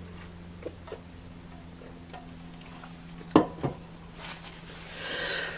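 Quiet close-mic chewing: a few faint mouth clicks, two sharper clicks about three and a half seconds in, then a short breath near the end.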